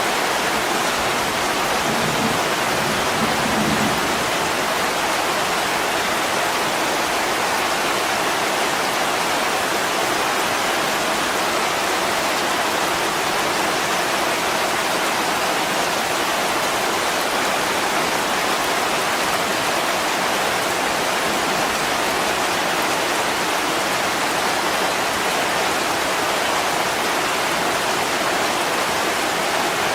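Heavy rain falling steadily, an even hiss of water with no breaks. A faint low rumble of thunder dies away in the first few seconds.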